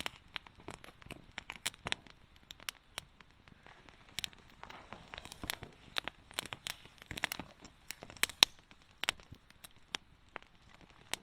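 Wood campfire crackling, with irregular sharp pops and snaps a few times a second.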